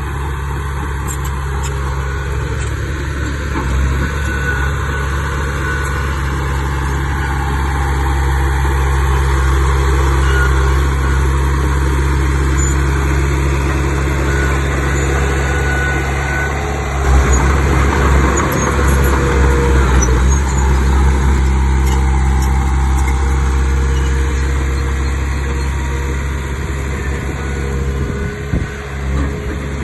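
Diesel engine of a Komatsu D31 bulldozer running steadily at a low drone, growing louder and rougher for a few seconds about halfway through.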